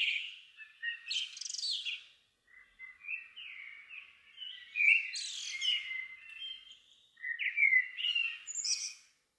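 Songbirds singing at dusk: several varied, warbling song phrases with quick rising and falling notes, separated by short pauses.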